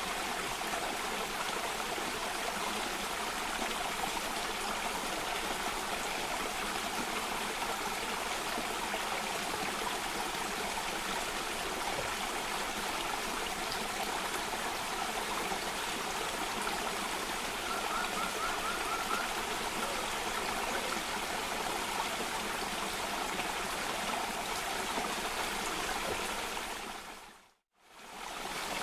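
Steady rushing water of a cascading stream. Near the end it fades out to silence and back in within about two seconds.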